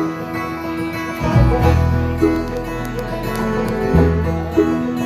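Live country band playing an instrumental intro, with banjo and guitar picking over a bass line.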